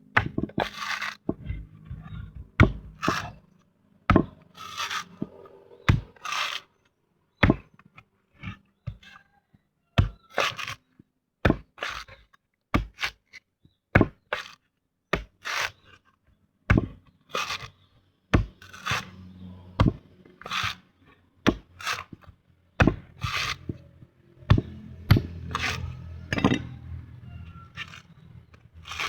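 An old coconut being opened by hand: irregular sharp knocks, about one or two a second, with the scraping and cracking of husk and shell between them.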